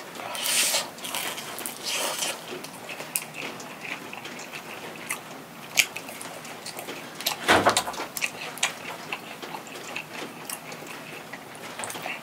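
Close-up chewing of a mouthful of potato and mung bean pancake (gamja nokdujeon): moist mouth clicks and crisp chewing throughout, with two louder bites or swallows, about half a second in and about seven and a half seconds in.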